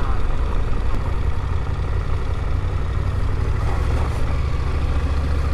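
KTM 890 Adventure motorcycle's parallel-twin engine running steadily with a continuous low hum, which grows a little stronger about a second in.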